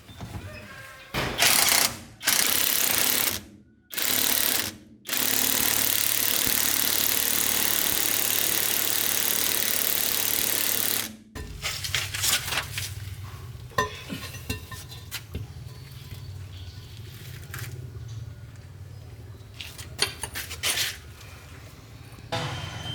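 Several short bursts of loud hissing noise, then one held for about six seconds, typical of a compressed-air or power tool; it cuts off and a low, steady engine hum carries on with scattered clicks.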